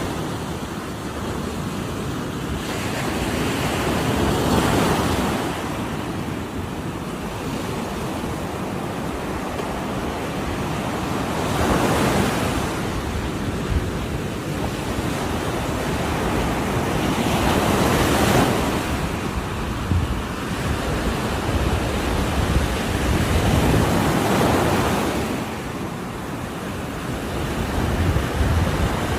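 Ocean surf: waves breaking on the shore one after another, a swell of rushing noise about every six seconds, four in all, with a steady wash between them.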